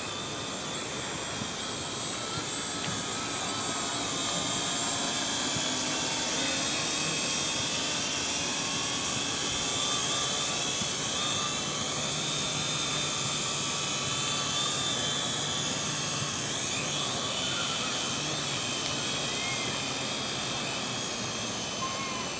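Quadcopter drone's propellers whining close by as it comes in to land, with several high tones that waver and shift in pitch as the motors adjust; it gets a little louder in the middle.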